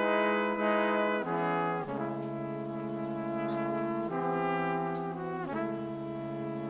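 Film score music: brass playing slow held chords. It comes in suddenly and moves to a new chord every second or two.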